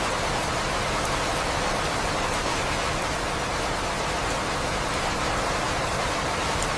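Steady, dense rain noise with no let-up.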